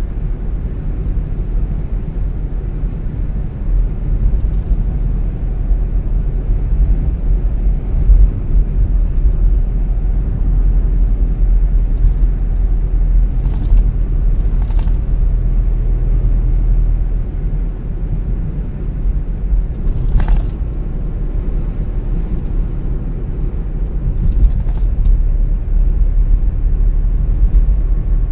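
Car driving at road speed: a steady low rumble of engine and tyres on the road, with a few short clicks or knocks now and then.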